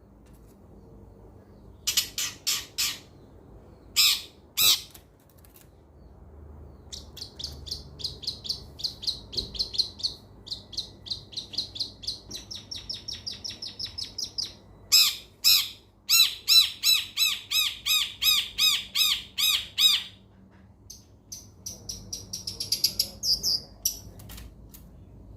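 Long-tailed shrike (cendet) song: harsh rasping squawks alternating with long runs of rapid repeated trilling notes and a series of clear whistled notes, with a burst of chatter near the end.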